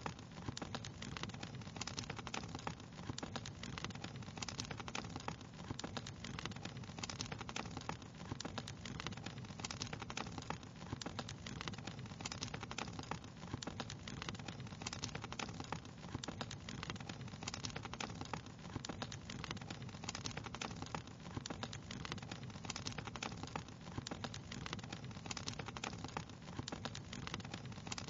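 Wood fire crackling: a constant, irregular stream of small snaps and pops over a low, even rumble.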